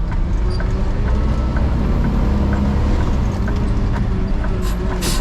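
Garbage truck running: a steady low rumble with faint regular ticking, and a few short bursts of hiss near the end.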